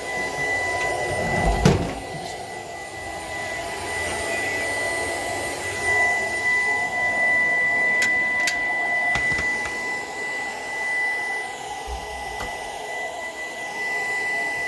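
Shark PowerDetect vacuum running steadily with a high motor whine over a rush of suction, with a thump a little under two seconds in and a few light clicks.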